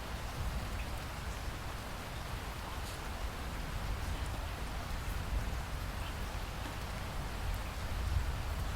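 Steady rainfall in a rain forest: an even hiss of rain with scattered drop ticks over a constant low rumble.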